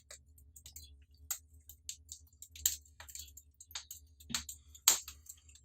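Wood fire crackling in a fireclay-brick fireplace: irregular sharp pops and snaps, the two loudest about four and five seconds in.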